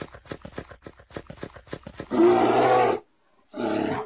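A quick run of thumps, about five a second, then a bear roar sound effect: one long loud roar about two seconds in and a shorter second roar near the end.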